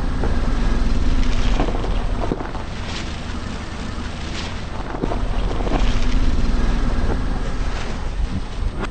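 A car rolling slowly with its engine running low, its tyres crushing crunchy objects: scattered sharp cracks and snaps over the steady rumble, which swells twice.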